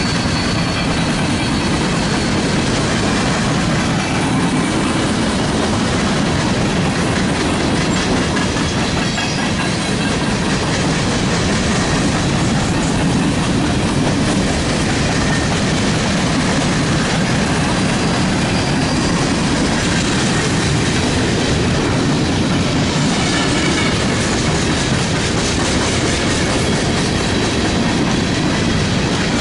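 Freight train of open-top hopper cars rolling past: a steady rumble and clatter of steel wheels on the rails, with faint high wheel squeals now and then.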